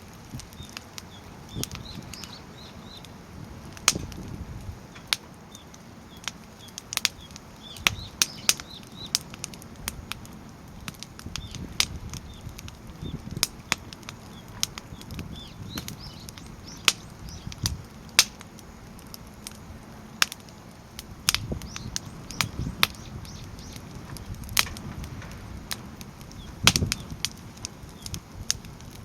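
Firewood burning in a fire stand, crackling with many sharp, irregular pops and snaps over a low, steady rush of flame.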